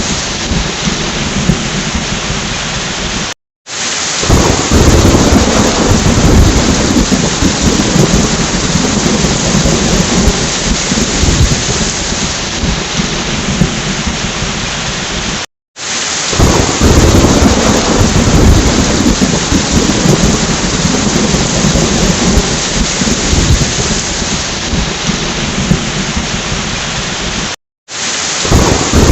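Heavy rain falling steadily with rolling thunder rumbling underneath. The rain-and-thunder recording loops about every 12 seconds, with a brief moment of total silence at each join, and the thunder swells just after each gap.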